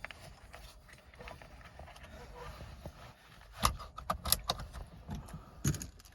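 Keys jingling and clicking in a car's cabin. Quiet rustling gives way about three and a half seconds in to a cluster of sharp clicks and jingles that lasts about two seconds.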